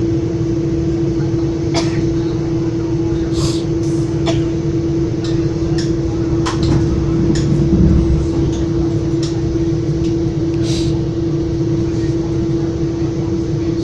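Interior of a moving Metra commuter train car: a steady hum over a continuous low rumble from the running train, with scattered irregular clicks and rattles.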